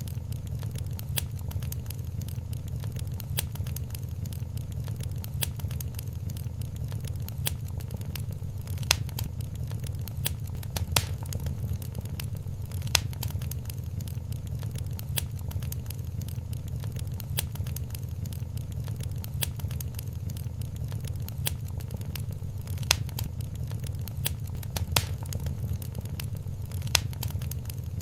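Wood fire crackling in a fireplace: a steady low rumble of flames with constant small crackles and a louder pop every few seconds.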